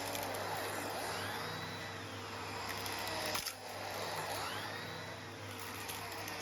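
Numatic Henry vacuum cleaner running, its motor whine rising and falling in pitch as the airflow changes, with stones clinking and rattling as they are sucked up the hose. One sharp knock about three and a half seconds in, with a brief dip in the motor sound.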